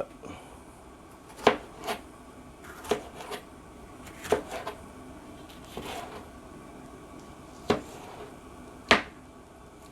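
Irregular sharp knocks and taps of kitchen prep with a knife and cut vegetables, about nine in all, spaced roughly a second apart.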